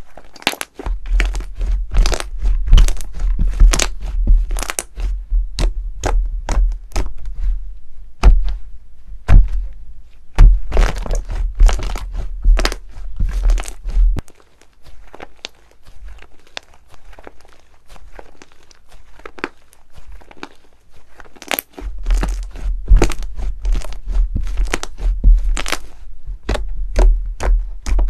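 Slime being pressed, poked and squeezed by hand: quick runs of crackling, clicking and popping with heavy thuds, easing off in the middle and picking up again about three-quarters of the way in.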